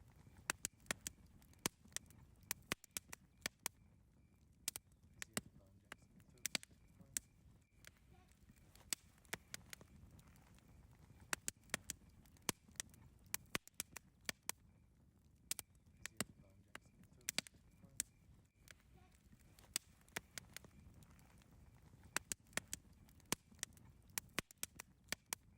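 Campfire crackling: irregular sharp pops and snaps, several a second, over a faint low hiss of the burning fire.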